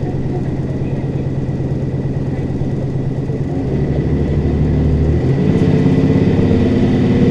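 Mitsubishi Fuso Aero Star city bus (2PG-MP38FK) heard from inside the cabin, its diesel engine running steadily under way. About halfway through, the automatic transmission kicks down to a lower gear: the engine gets louder, its pitch steps up, and it pulls harder as the bus accelerates.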